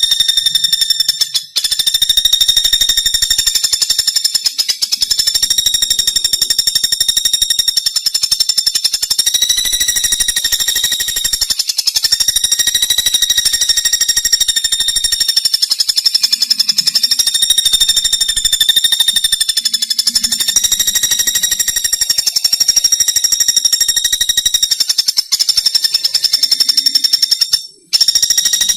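Pelatuk bawang (common flameback woodpecker) giving a long, rapid, high-pitched trill, repeated almost without pause, with short breaks about a second and a half in and near the end.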